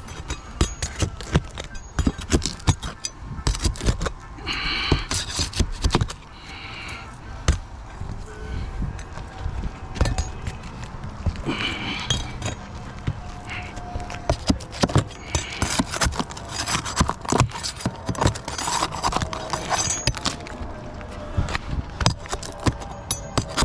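Irregular metal taps and knocks, with short stretches of scraping, as roofing nails are pried out with a bar to free the shingles.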